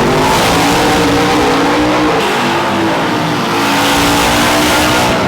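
Drag-racing truck engine at full throttle during a pass, loud and continuous, with a change in engine note about two seconds in.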